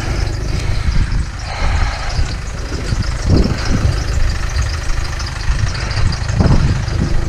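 Vehicle engine idling with a steady low rumble, with a few brief handling rustles over it.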